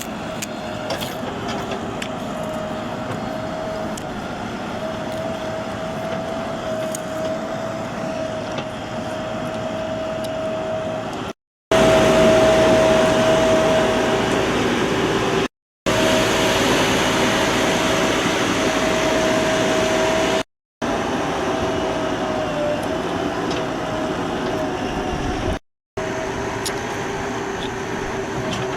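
JCB 3DX backhoe loader working, its diesel engine running steadily under a constant whine. The sound drops out briefly four times where clips are cut together. It is loudest in the second clip.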